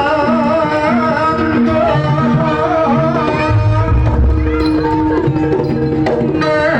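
East Javanese jaranan music: hand drums beating a steady pattern under sustained gong-like tones and a wavering, ornamented high melody line.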